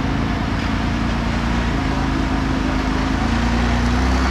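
Off-road competition vehicle's engine running continuously, its pitch stepping up and down as the throttle is worked.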